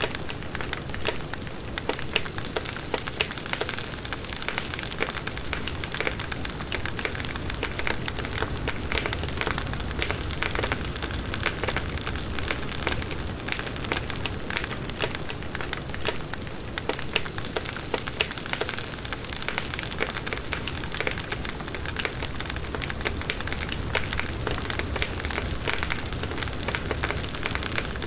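Firewood burning in a campfire, crackling densely and steadily throughout.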